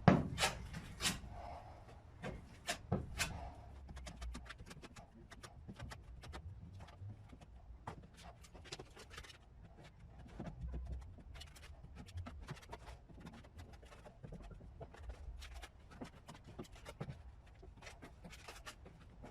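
Sped-up scraping and tapping of a spreader working lightweight body filler onto a patched steel panel: a quick, irregular run of short scrapes and clicks, a little louder in the first few seconds.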